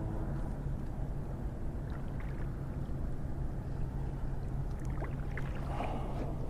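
Small boat motor running steadily on a fishing kayak: a low, even hum over water noise, with a few light clicks about five seconds in.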